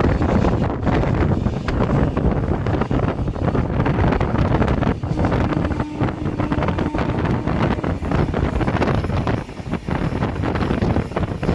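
Wind buffeting the microphone over the steady rumble of a running train.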